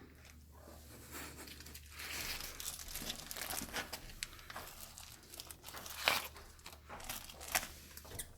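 Crinkly rustling and scuffling as a cat bats at and pounces on a mouse, with sharp clicks, the loudest about six seconds in.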